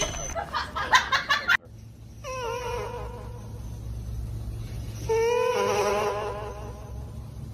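A kitten's long drawn-out meows picked up by a handheld microphone and played through a portable karaoke speaker: two long cries, each lasting two to three seconds, over a steady low speaker hum. Before them, a burst of music cuts off abruptly about a second and a half in.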